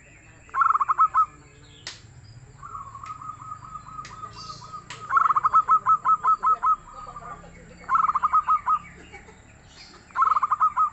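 Zebra dove (perkutut) singing: four loud phrases of rapid staccato cooing notes, with a softer, slower run of notes between the first two.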